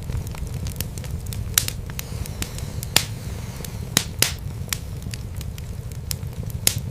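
Wood fire burning in a fireplace: irregular sharp crackles and pops over a steady low rumble of the flames, with the loudest pops about three and four seconds in.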